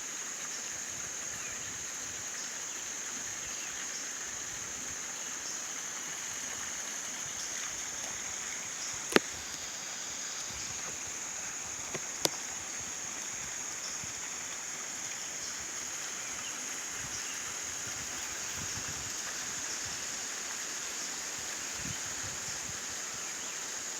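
Steady high-pitched chorus of insects over a faint outdoor hiss, with two brief sharp clicks from the phone being handled, about nine and twelve seconds in.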